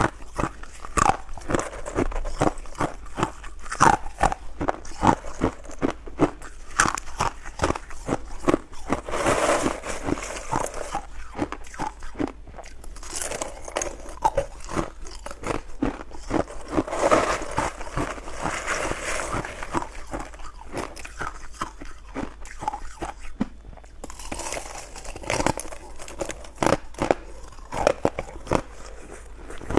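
Ice being bitten and chewed close to the microphone: a steady run of sharp, irregular crunches and cracks, with a few stretches of grinding as the pieces are chewed down.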